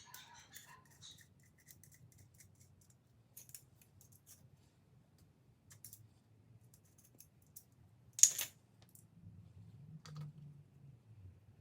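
Faint metallic clicks and scrapes of hand tools working steel set screws into the tapped oil holes of an LS engine block. There is one louder, brief clatter about eight seconds in and a smaller knock about two seconds later.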